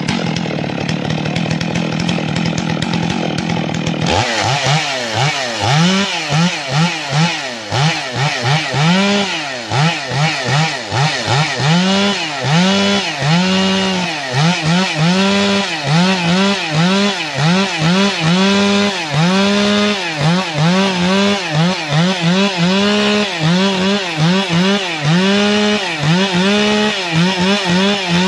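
Two-stroke chainsaw cutting wood. It runs at a steady high speed for about four seconds, then its engine note rises and falls again and again, about once a second, as the throttle is pumped. Near the end it winds down.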